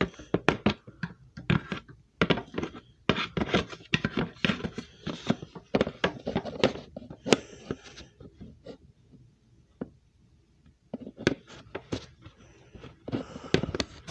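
Hard plastic clicks, knocks and rattles from a vacuum cleaner's dust bin as it is handled and a piece is taken off it. They come in quick runs, with a lull of a few seconds in the middle.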